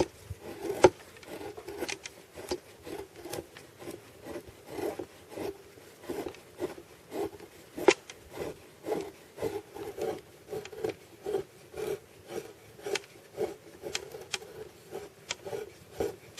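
Knife shaving kindling splinters off a piece of wood on a board: repeated scraping strokes about twice a second, with a couple of sharp clicks among them.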